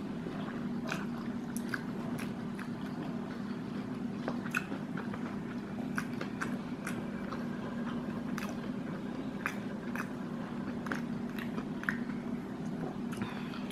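A person chewing a mouthful of fried chicken burger with the mouth closed: irregular small wet clicks and smacks.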